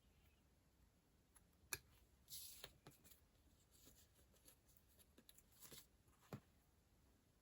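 Faint desk sounds of handling paper stationery: soft rustles with a few light clicks and taps, the sharpest about two seconds in and another near the end.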